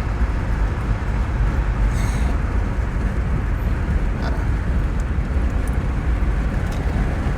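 Steady low road and engine rumble inside a moving car's cabin, with a couple of faint clicks.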